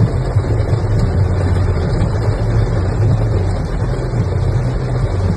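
Steady rumble of a car driving in heavy rain, heard from inside the cabin: engine and tyre noise on the wet road under an even hiss of rain and spray.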